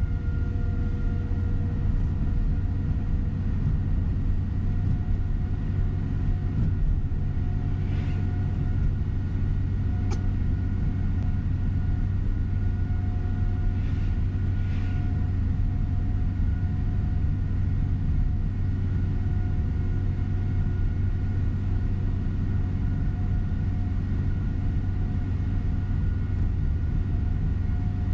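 Rail-replacement tour coach running at a steady speed, heard from inside the cabin: a constant low engine and road rumble with a faint steady whine above it, and a few light ticks or rattles around the middle.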